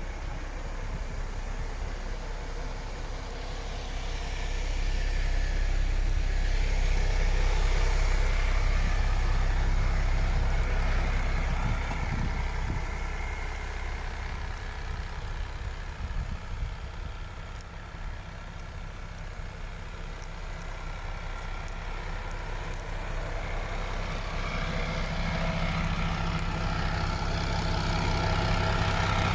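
MAN TGX 26.460 truck's six-cylinder diesel engine idling steadily, its loudness swelling for several seconds, easing off and then rising again toward the end.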